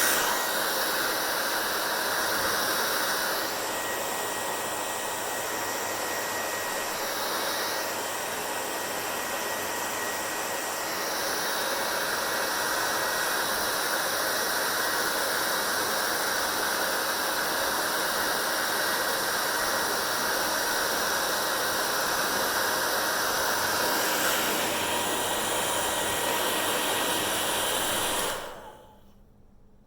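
Hair dryer blowing with a steady rushing noise whose tone shifts a few times as the airflow changes. It is switched off about a second before the end.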